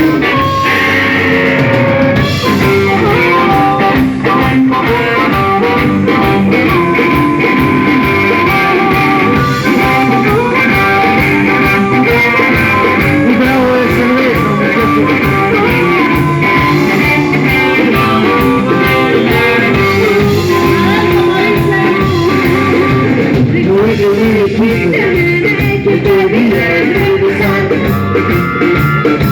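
Rock and roll band playing: guitar over bass and drum kit, loud and continuous.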